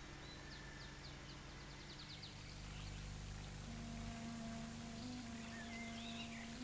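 Faint film-soundtrack ambience: a bird's quick series of descending chirps, then a low held music note comes in about halfway, with a few more bird chirps near the end.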